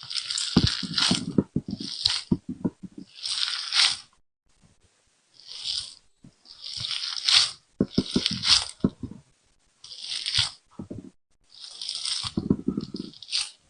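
Soft jelly squishing and popping under pressure in a run of short crackly bursts with brief pauses between them.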